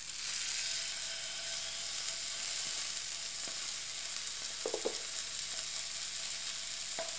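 Duck breast sizzling flesh side down in its own rendered fat in a frying pan: a steady frying hiss, loudest in the first second as the meat settles into the hot fat, with an occasional small crackle.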